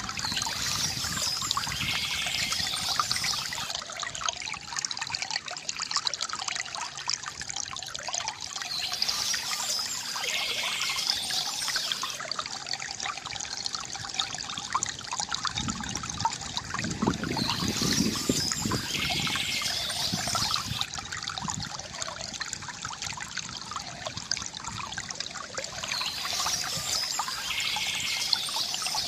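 Stream water trickling and splashing steadily over stones, a constant gurgling wash. A brighter, higher sound rises over it about every nine seconds.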